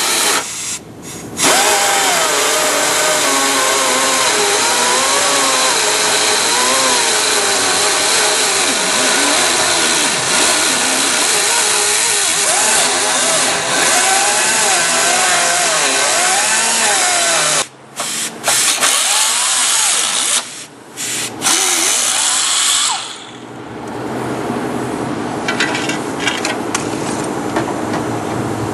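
Handheld power tool running hard against pickup cab sheet metal, its pitch wandering up and down under load and stopping briefly a few times. Near the end it stops, leaving a lower steady hum with scattered light clicks.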